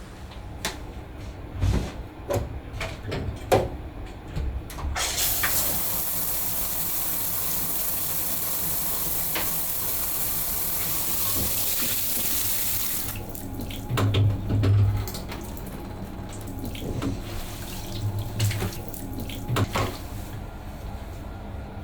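A kitchen tap running into the sink for about eight seconds, switched on and off abruptly, with scattered knocks and clinks of handling before and after.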